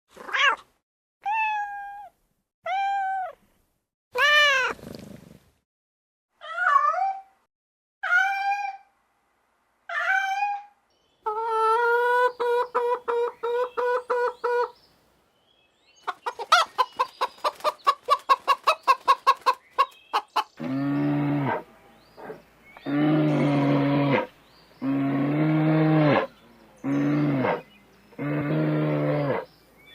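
A run of different animal calls: about eight short meow-like calls falling in pitch, then a fast string of quacks, then rapid clicking calls, and finally five lower, longer calls.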